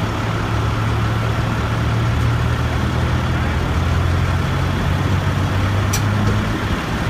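Heavy truck engine running steadily at a constant speed, a low even drone.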